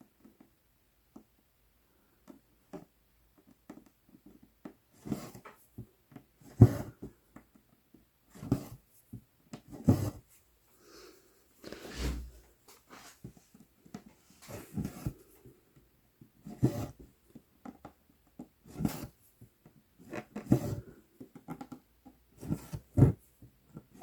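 Embroidery needle and floss being pushed and pulled through 11-count Aida cloth, a short rasping stroke about every two seconds, in a steady rhythm of stitching.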